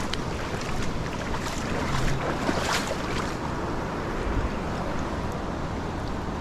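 Steady rushing of water at a river spillway, an even hiss with a few faint ticks.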